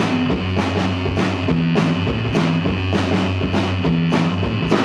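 Live rock band playing between vocal lines: a steady drum-kit beat with bass guitar and electric guitar.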